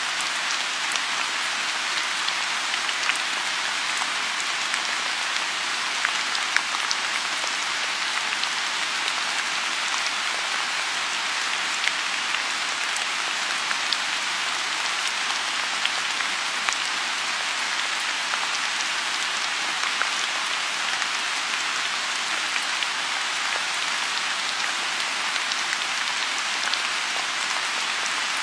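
Steady rain falling on a pond, a constant hiss with many small individual drops ticking through it.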